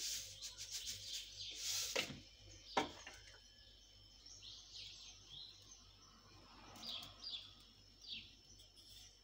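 Birds chirping in short, high, falling calls, with a rustle at first and one sharp knock about three seconds in.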